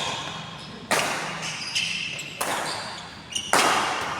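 Badminton rackets striking a shuttlecock in a rally: three sharp hits a second or so apart, the last the loudest, each echoing briefly in a large hall.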